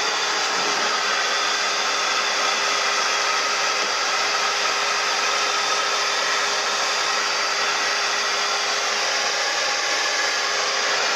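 A motor-driven cleaning machine running steadily: an unbroken rushing hiss over a constant hum.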